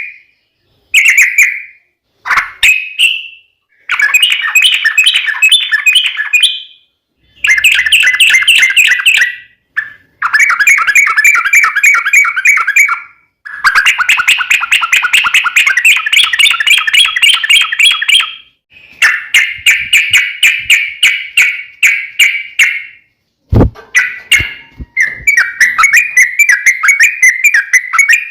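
Yellow-vented bulbul (trucuk) singing its fast, rolling chattering song in loud bouts of one to five seconds separated by short pauses. A single sharp knock comes about three quarters of the way through.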